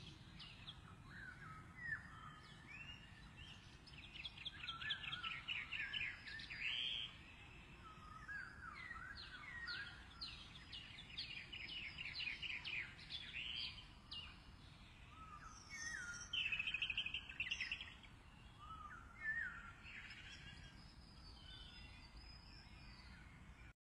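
Small birds chirping: bursts of rapid, high chirps, with short rising notes in between. The bursts come several times, with the loudest around the middle and near the end.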